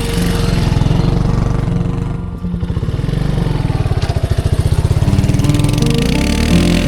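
Bajaj Boxer 150's single-cylinder four-stroke engine running, with a brief dip in its level about two and a half seconds in.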